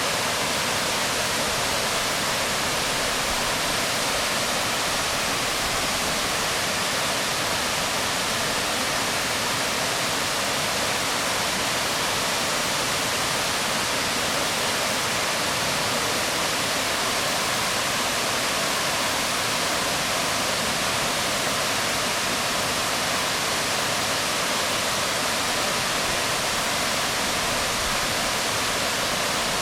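Waterfall pouring onto rocks: a steady, unbroken rush of water with no change in level.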